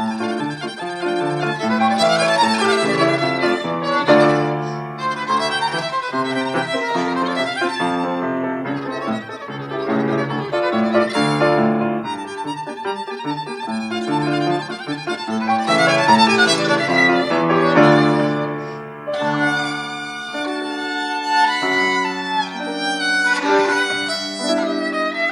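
Violin playing a melody with piano accompaniment.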